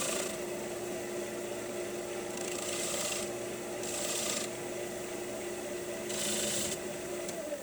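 Wood lathe running with a steady hum while a tool is worked against the spinning maple bowl in four separate passes, each a hissing scrape.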